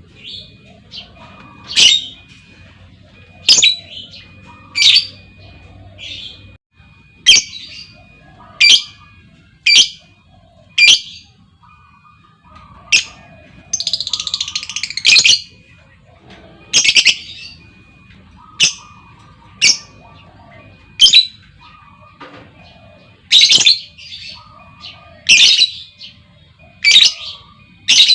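Lovebirds calling: short, sharp, shrill squawks about every one to two seconds, with a longer chattering trill about halfway through. A female lovebird's call, used as a lure to set other lovebirds trilling.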